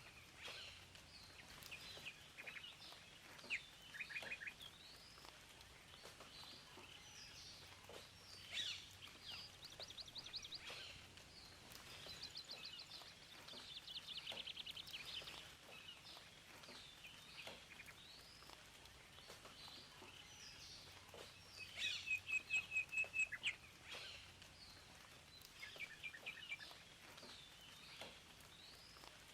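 Several songbirds chirping and trilling over a faint steady background hiss, with a loud, fast run of repeated notes a little over twenty seconds in.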